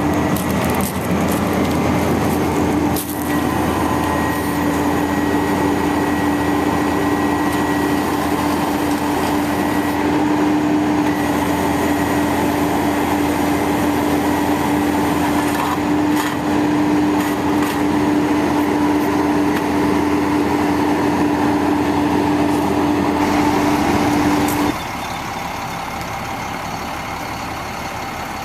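A 1999 International 4900 bucket truck running steadily with a strong held tone, then dropping suddenly to a quieter idle near the end.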